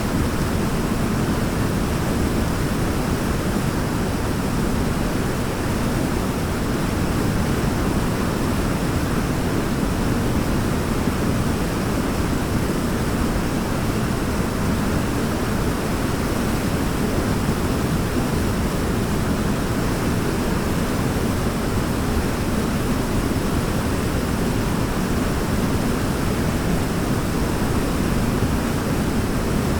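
Waterfall: a steady, deep rush of falling water, unchanging throughout.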